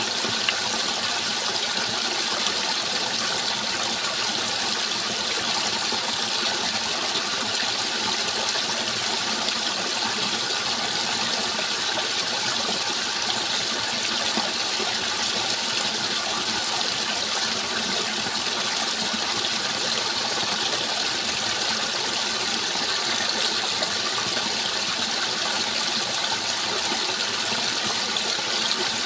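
Flowing water rushing steadily, an even hiss that does not change or break.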